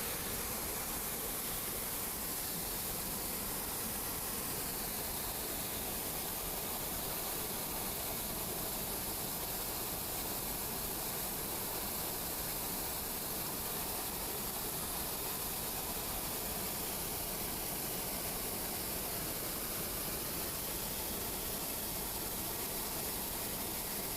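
Steady monsoon rain, an even hiss that holds unchanged throughout.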